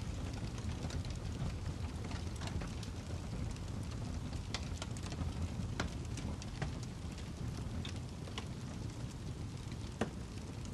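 Wood fire burning in a fireplace: a steady low rumble of flames with irregular sharp crackles and pops from the burning log, a few louder pops standing out.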